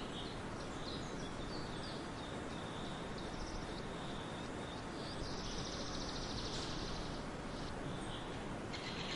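Songbirds chirping in short high notes over a steady background hiss, with a fast trill about five seconds in that lasts a couple of seconds.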